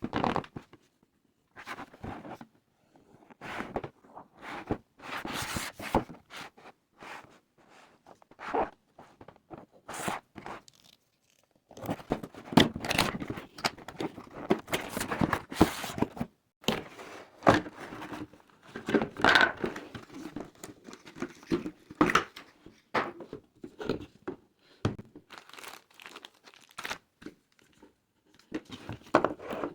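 Packaging being handled and torn open: irregular bursts of tearing and crinkling, with light knocks, busier in the second half.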